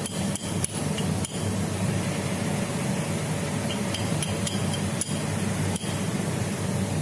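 A few light metallic clinks and taps, a cluster in the first second and a half and more between about four and six seconds, over a steady mechanical hum.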